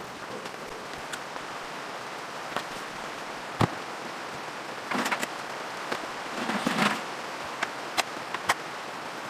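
Steady rain hiss with scattered sharp taps, the loudest about three and a half seconds in, and two short rustles around five and seven seconds in.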